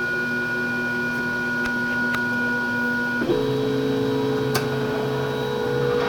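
3D printer stepper motors whining in steady tones while printing. The pitch jumps to a different set of tones about halfway through as the print head changes its move, with a few faint ticks.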